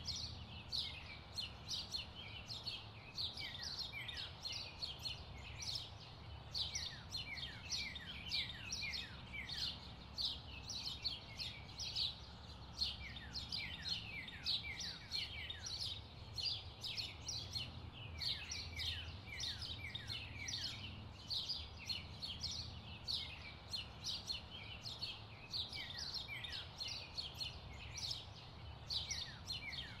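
Birds chirping without a break: many short, quick chirps, each falling in pitch, several a second, over a faint low rumble.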